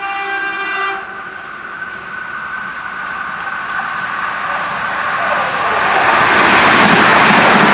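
A train horn sounds a steady chord that cuts off about a second in. Then the Hyundai Rotem HRCS2 electric intercity train's rushing rolling noise grows louder as it approaches and passes close by.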